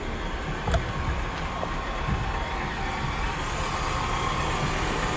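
2005 BMW X5 engine idling with the A/C switched on and the compressor running, its worn A/C compressor bearings making a steady noise that is lower with the A/C on. A short click about a second in.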